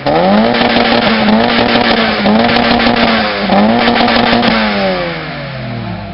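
Vehicle engine revved hard through a loud contest exhaust: it climbs fast and holds at the top of its revs for about four seconds, dipping briefly twice, then falls back toward idle near the end.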